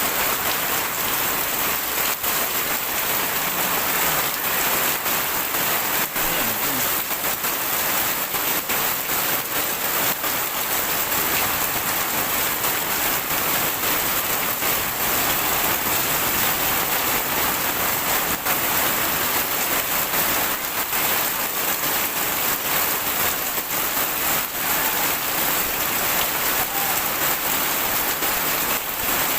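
Heavy rain pouring steadily, a dense even hiss of rain on surfaces with many small drop ticks mixed in.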